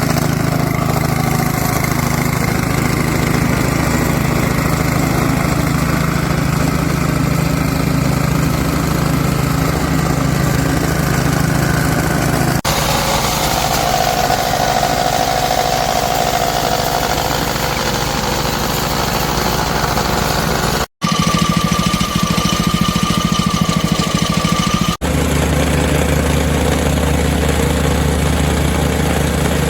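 Small gas engine of a plate compactor running at steady speed, with the steel plate vibrating, heard in several clips joined by abrupt cuts about 12, 21 and 25 seconds in.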